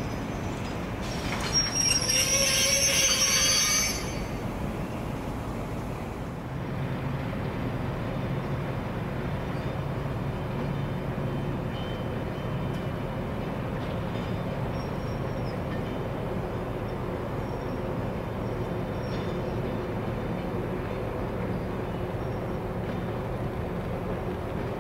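Maroon-and-cream passenger coaches rolling past, with a loud, high-pitched wheel squeal from about one and a half to four seconds in. Then a steady hum with a few low, level tones, from an InterCity-liveried Class 90 electric locomotive moving slowly toward the camera.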